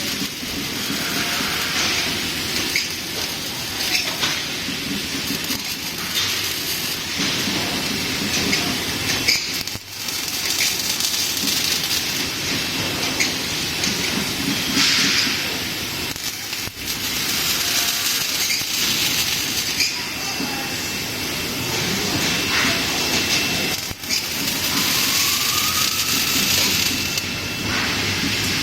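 Steady machine noise from a laser welding workstation running, a continuous hiss and rumble. It drops away briefly three times, about every seven seconds.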